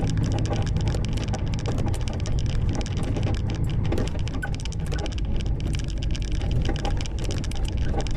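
Truck cab on the move: a steady low engine and road rumble with a dense, irregular clatter of rattles and knocks, typical of the cab shaking over a rough road.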